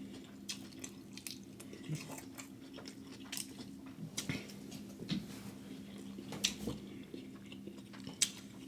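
Close-miked eating sounds: a person chewing and biting seafood boil, with small, sharp irregular clicks and smacks over a steady low hum.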